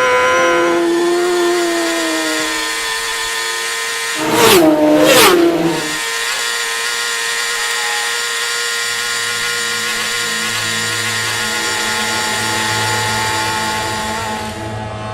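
Racing motorcycle engines running at high revs. Bikes pass fast about four and a half and five seconds in, their engine pitch dropping sharply as they go by.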